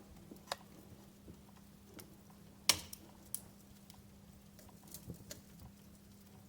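Wood fire crackling in a fireplace: irregular sharp pops and snaps, the loudest about two and a half seconds in, over a faint steady low hum.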